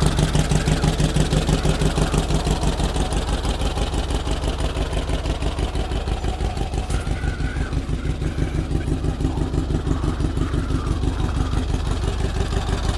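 Freshly rebuilt 1641 cc Volkswagen air-cooled flat-four in a 1974 Karmann Ghia, idling steadily with an even, regular pulse.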